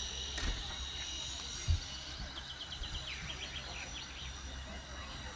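A small bird sings a short trill of rapid high notes about two seconds in, over a steady low rumble. A single thump comes just before the trill.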